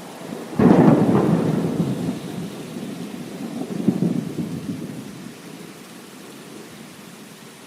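A thunderclap about half a second in, rumbling and swelling again around four seconds before dying away, over steady heavy rain.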